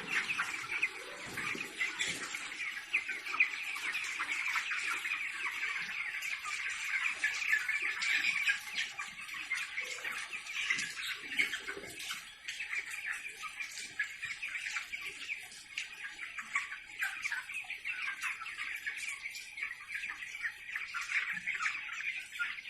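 A flock of chickens in a poultry shed, a dense, continuous chatter of many overlapping peeps and clucks.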